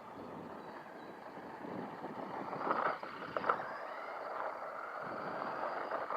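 Redcat Volcano 18 V2, a 1/18-scale electric RC truck, driving over rough blacktop and gravel: a steady rush of tyre and motor noise, with two sharp knocks about halfway through.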